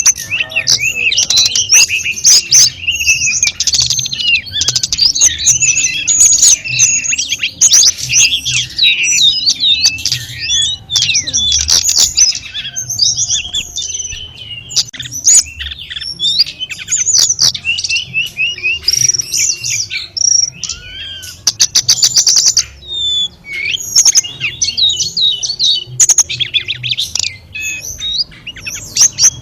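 Tledekan gunung singing a fast, varied, near-continuous song of chirps, trills and sweeping whistles, with a run of rapid ticks about two-thirds of the way through.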